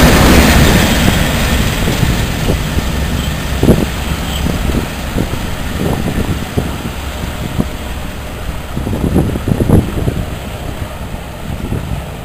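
Diesel locomotive in Direct Rail Services livery passing at the rear of a train of coaches, its engine and wheels loud at first and fading quickly as it moves away. After that, a steady low rumble with a few short low thumps.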